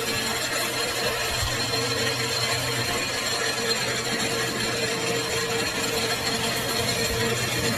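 Metal lathe running steadily, a constant hum with a steady tone over an even hiss.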